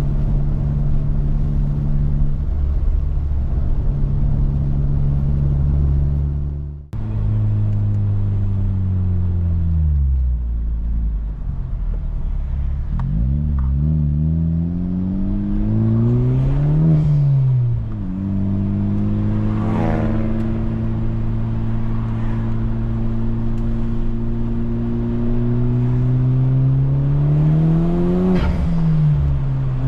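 Honda Civic Type R's K20 four-cylinder engine, heard through a new Injen stainless exhaust, pulling the car on the road. It slows and drops in pitch, then revs up twice, with a sudden drop in pitch at each gear change, about a third of the way in and again near the end, and holds a steady drone in between.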